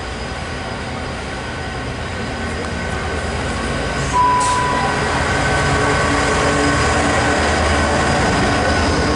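DB Cargo Class 66 diesel locomotive, a two-stroke EMD engine, hauling a freight train of covered wagons past at close range. The engine and wheel noise grows louder as it approaches. About four seconds in, a brief high tone sounds, and then the steady noise of the passing locomotive and wagons holds.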